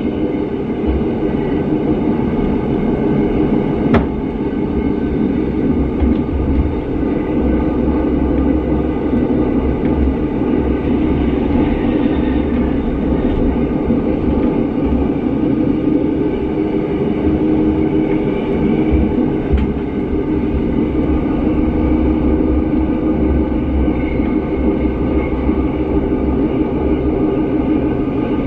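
Rhaetian Railway metre-gauge train running at speed, heard from on board: a steady rumble of wheels and running gear, with a single sharp click about four seconds in.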